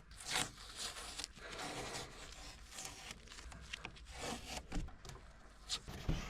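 Tape being peeled off wood in a series of short, irregular rips.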